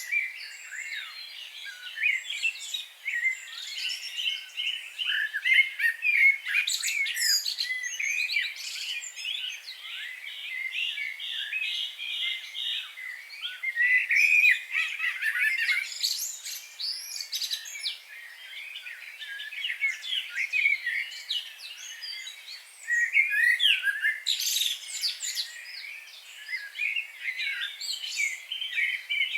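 A dense chorus of songbirds chirping and singing over one another, with a quick run of evenly repeated notes around the middle.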